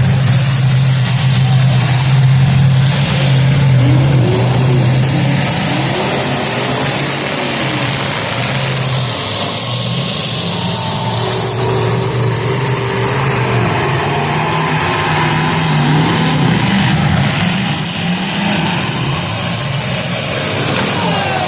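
Demolition derby cars' engines running loud, with several engines revving up and down over a dense, steady din.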